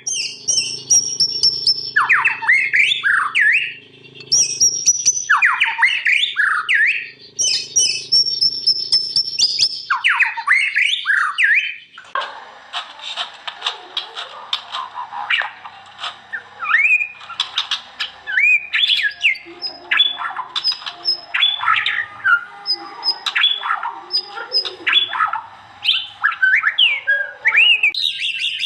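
White-rumped shama (murai batu) singing: loud whistled phrases with sweeping notes, repeated every two to three seconds. About twelve seconds in, it gives way to a faster run of varied chirps and trills over more background noise.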